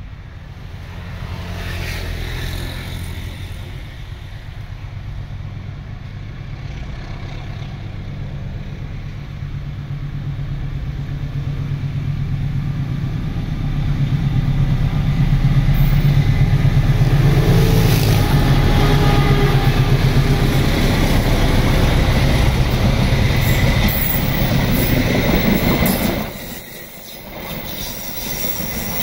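A CC206 diesel-electric locomotive hauling passenger coaches approaches, its engine rumble growing steadily louder until it passes close by. Near the end the coaches roll past with clicking wheels on the rail joints.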